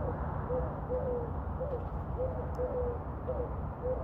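Several pigeons cooing: short, low calls with a little rise and fall, overlapping and repeating about twice a second, over a steady low rumble.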